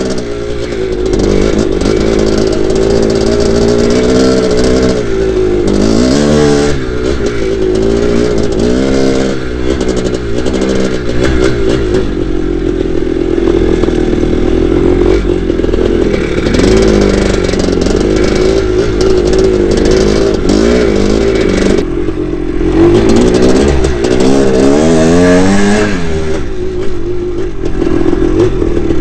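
1982 Maico 490's two-stroke single-cylinder engine under way on a dirt bike, the revs rising and falling over and over as the throttle is opened and closed, easing off briefly a couple of times.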